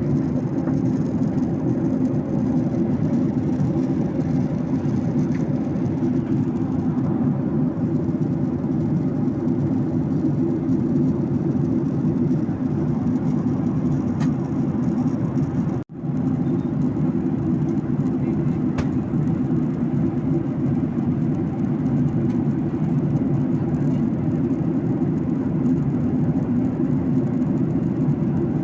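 Steady low drone of a passenger airliner's cabin in flight: engine and airflow noise. A momentary dropout comes about halfway through.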